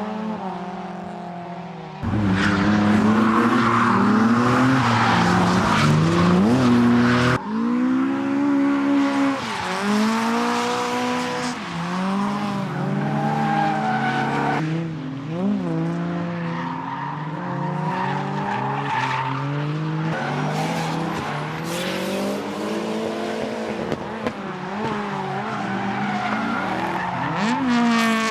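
Retro race and drift cars' engines revving hard and climbing through the gears as they lap the track, with tyres squealing. Loudest for about five seconds a couple of seconds in, when it cuts in and out abruptly.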